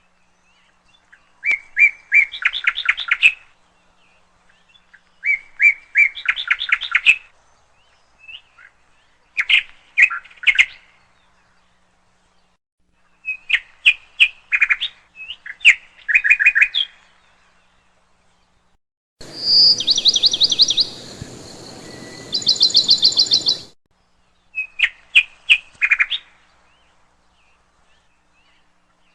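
A bird chirping in several short bursts of rapid chirps, a few seconds apart, with a steady hiss behind two of the bursts about two-thirds of the way through.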